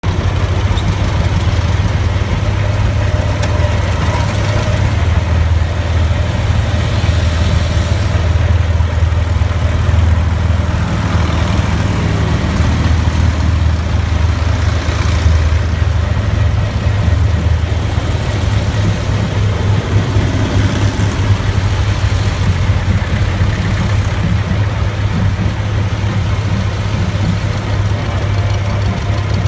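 Tractor engines running steadily at low speed.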